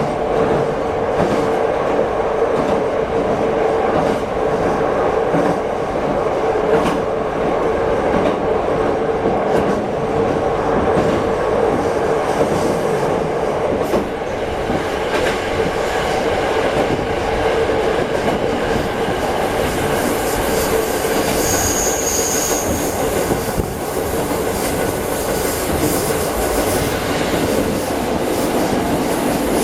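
Diesel railcar heard from inside the passenger cabin: steady running noise from the engine and rails with a constant hum. A short high-pitched squeal comes in about 22 seconds in.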